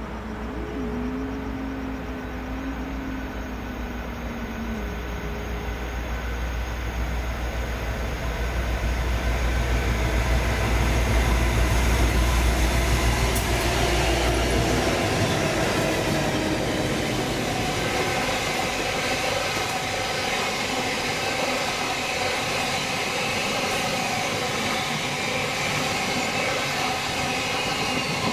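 Two diesel-electric locomotives approach and pass with a deep engine rumble that grows louder and drops away about halfway through. Passenger carriages follow, rolling by with a steady rush of wheel and rail noise.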